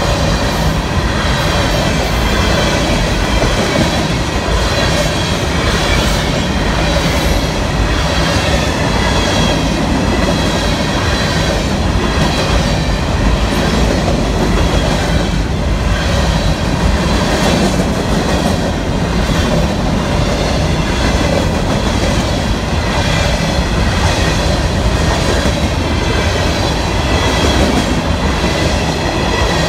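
Freight cars of a Florida East Coast Railway train rolling steadily past at close range, wheels clattering over the rails, with a high, wavering wheel squeal over the rumble.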